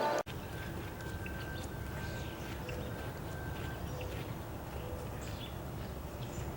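Outdoor ambience: a steady low rumble with faint, scattered bird chirps and a thin steady tone for the first few seconds. A short burst of intro music ends abruptly right at the start.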